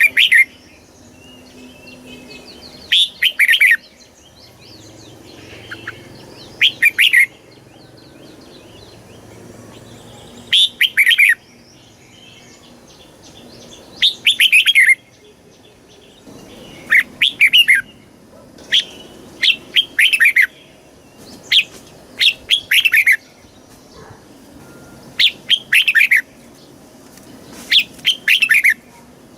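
Red-whiskered bulbul singing: short, loud song phrases, often in pairs, every one to three seconds, with fainter chirping between them.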